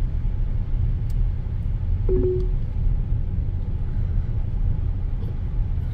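Steady road and engine rumble inside a moving car's cabin, with one short electronic beep about two seconds in.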